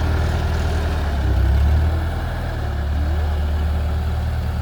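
Tractor engine running steadily with a low hum, briefly swelling in loudness about a second in as the tractor is driven.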